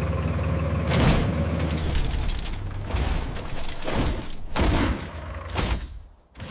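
Heavy machinery sound: a steady low engine rumble with sharp metallic knocks and thuds, dropping away briefly near the end.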